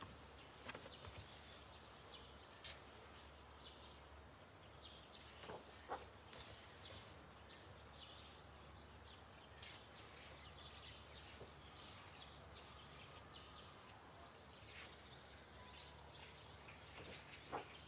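Near silence: quiet room tone with faint rustles of paper pages being handled and turned a few times.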